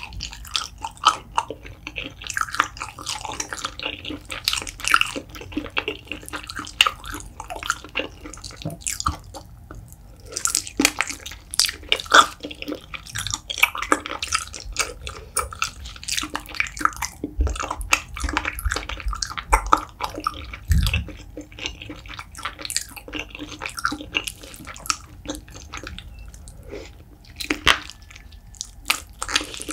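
Wet, sticky chewing and biting of chewy spicy braised beef feet in thick sauce: a dense run of irregular smacking and squelching clicks.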